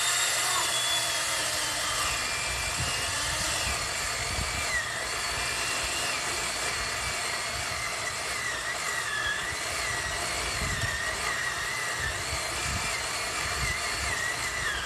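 Chainsaw running at high revs and cutting wood, its engine pitch wavering up and down as the chain loads in the cut.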